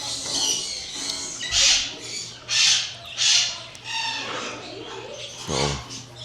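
Captive parrots screeching, a string of harsh, loud squawks about a second apart with a few shorter pitched calls between, over a faint steady low hum.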